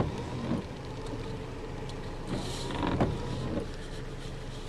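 Truck engine idling with a steady low rumble, heard from inside the cab, with a few faint knocks and a brief hiss about two and a half seconds in.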